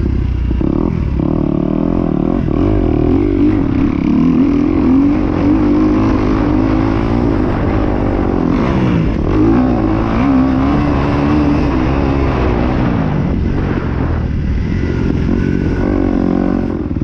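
Kawasaki KX250X four-stroke single-cylinder dirt bike engine running hard on the track, its pitch repeatedly climbing under throttle and dropping sharply as the throttle is chopped.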